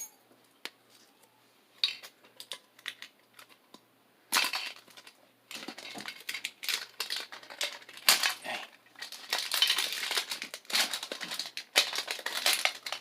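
Pokémon card packaging being struggled open by hand: a few scattered clicks and crackles at first, then from about four seconds in a continuous crinkling and crackling of the wrapper as it is pulled and worked at.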